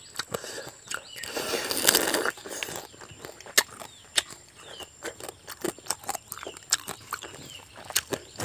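Close-up eating sounds of boiled crab and rice eaten by hand: wet chewing and lip smacking with sharp, irregular clicks and crunches, denser for about a second early on.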